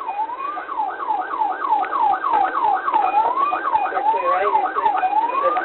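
Police car siren switching between a slow rising wail and a rapid yelp of about four sweeps a second.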